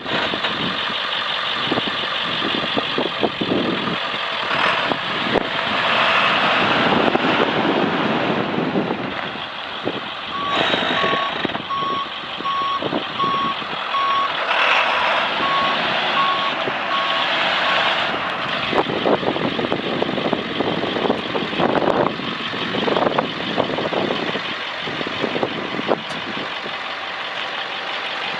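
1998 International 4700 van truck's diesel engine running, with its reverse alarm beeping about once a second for several seconds partway through as the truck backs up.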